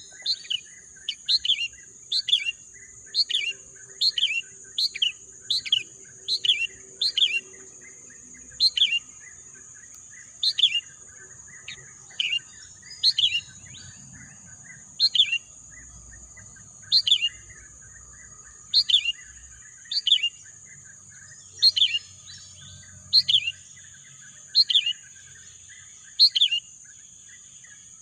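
A songbird repeating a single short, sharp call that falls in pitch. The calls come about twice a second at first, then slow to about one every one to two seconds. A steady high-pitched drone runs underneath.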